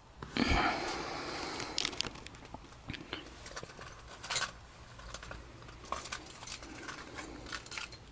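Keys jangling, with a burst of rustling about a second long near the start and scattered light clicks and jingles from handling things in the car.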